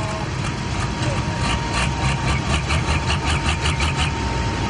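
Pro Stock pulling tractor's diesel engine running hard under load down the track: a deep, steady drone that grows louder about a second in, with a fast, regular pulsing over it through the middle.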